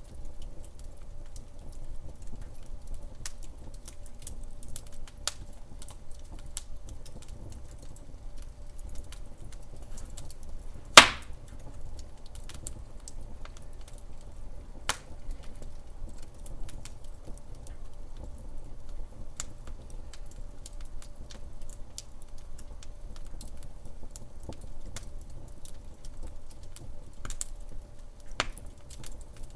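Wood fire burning in a fireplace, crackling with many small irregular pops over a low steady rumble. One sharp, loud pop comes about eleven seconds in, and a smaller one a few seconds later.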